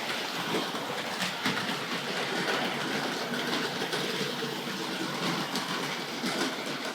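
Hornby Dublo 00-gauge electric model train running steadily on three-rail track, with a continuous set of clicks and rattles from the wheels passing over the rails.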